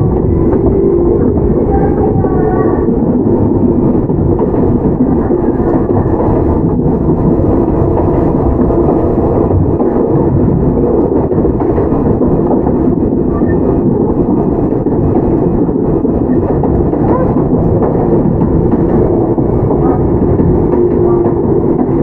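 Interior running sound of a Toyama Chihō Railway 17480-series electric train (ex-Tokyu 8090 series, field-chopper control): a steady, loud rumble of wheels on rail with a constant low tone.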